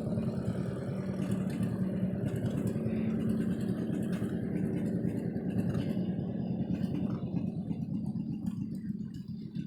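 Pulling tractor's engine running at a steady pitch, growing quieter near the end.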